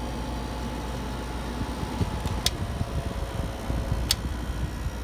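Vintage 6,000 BTU Fedders window air conditioner running, its compressor and fan making a steady low hum. A couple of sharp ticks or rattles come in the second half.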